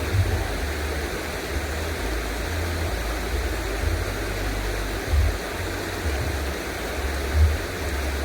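Steady outdoor rushing noise, with irregular low rumbles of wind buffeting the microphone that swell several times.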